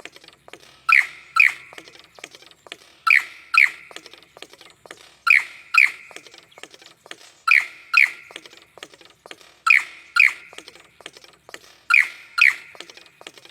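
Male lyrebird calling in his display song: a pair of sharp, bright notes repeated about every two seconds, six times, with a rapid run of clicks between the pairs.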